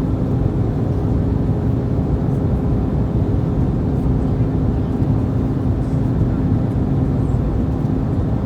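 Airbus A321's cabin noise: a steady rush of airflow and IAE V2500 engines, with a steady hum running through it.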